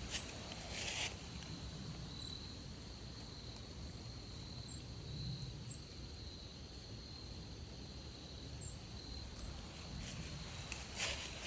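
Crickets trilling steadily in the woods, with a few short high chirps scattered through. Footsteps crunch on the trail in the first second and again near the end.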